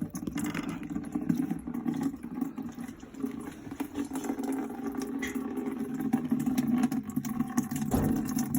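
Worcester combi boiler running, its fan and burner giving a steady low hum with scattered small clicks, as it restarts after its blocked condensate trap has been emptied.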